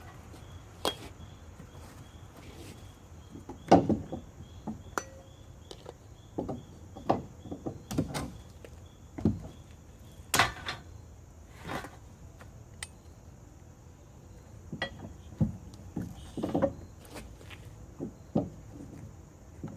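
Irregular knocks and clanks of metal tailgate parts being handled and fitted, about fifteen separate impacts at uneven intervals, some much louder than others.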